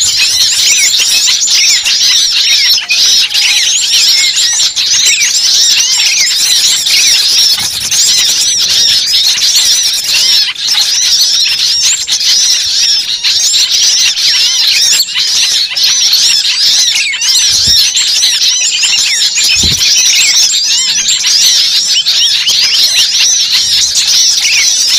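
A dense chorus of many birds chirping and squawking over one another without pause, as from a large flock.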